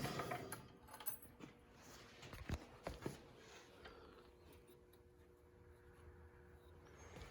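Faint scattered clicks and knocks, a few light handling sounds, over a low steady hum, after the engine cranking has stopped.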